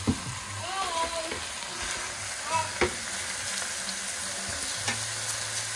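Chicken and freshly added sliced onions sizzling in a stainless steel Saladmaster pot, with a sharp click against the pot twice, near the start and about halfway through.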